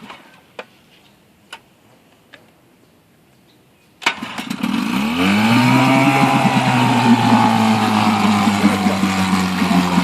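A few faint clicks, then about four seconds in a 1957 Evinrude Fisherman 5.5 hp two-stroke outboard motor is pull-started and catches at once. It revs up over a second or two and settles into steady running.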